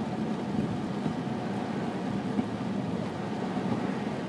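Steady road and engine noise inside a car's cabin, driving on a snow-covered highway.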